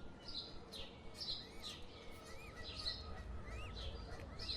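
Birds chirping: many short, high chirps mixed with repeated arching peeps.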